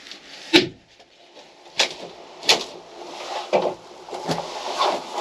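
Irregular sharp knocks and cracks, about six of them, with scraping between, as a fitting in a sailboat's interior is pried and pulled off. The loudest knock comes about half a second in.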